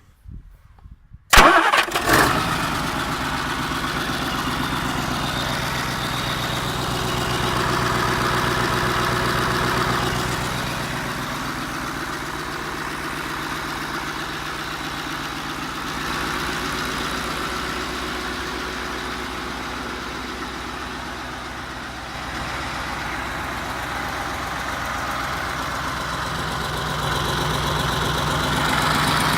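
Mercedes-Benz OM442A V8 turbo-diesel engine catching and starting abruptly about a second in, then running steadily. Its level swells and dips gently and rises again near the end.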